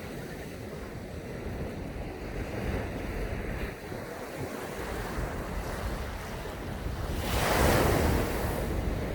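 Sea waves washing onto a sandy beach, with low rumble from wind on the microphone. A louder wave breaks and rushes up about three-quarters of the way through.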